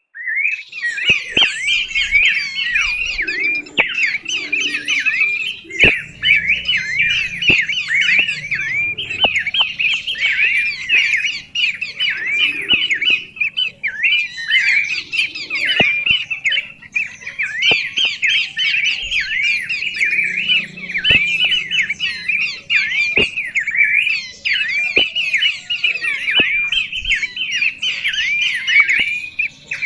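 A songbird singing a long, rapid, chattering song of quick repeated rising-and-falling notes, broken by short pauses every few seconds, with a few sharp clicks mixed in.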